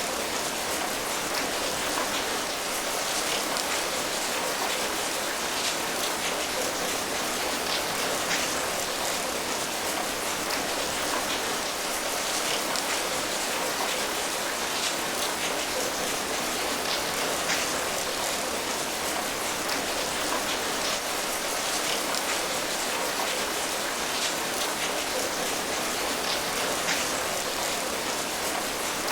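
Steady rain falling, a constant patter with many small individual drops ticking on a surface.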